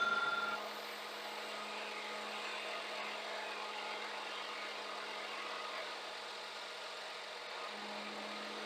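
Scania truck running with a steady low hum and hiss. The first half second carries the fading ring of a metal clank.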